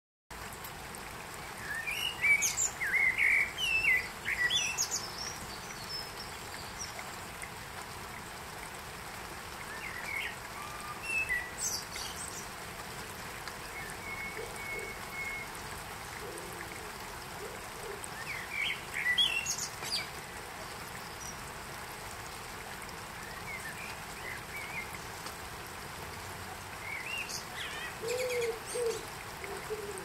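Songbirds chirping and trilling in short clusters, one roughly every eight seconds, over a steady background hiss of outdoor ambience.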